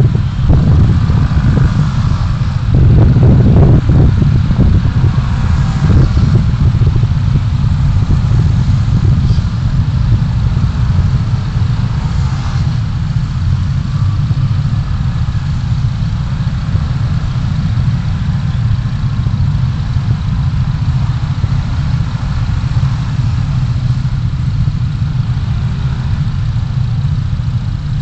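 Car engine and road noise heard from inside the cabin: a steady low rumble, with a few brief rattles and knocks in the first several seconds.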